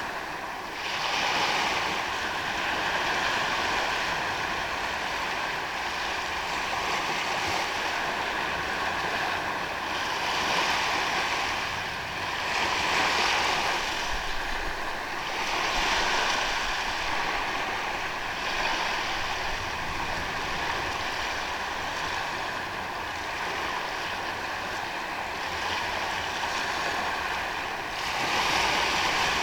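Ocean waves breaking on a sandy beach, a continuous wash of surf that swells every few seconds as each wave comes in.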